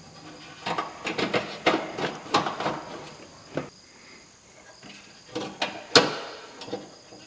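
Irregular clicks and light metallic knocks of a screwdriver and small screws against the parts of a Suburban RV furnace burner as it is reassembled. There is a cluster in the first couple of seconds and another about five to six seconds in, with the sharpest knock near six seconds.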